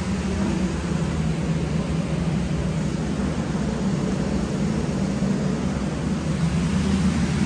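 Air-conditioning unit of a passenger railcar running: a steady rush of air over a constant low hum.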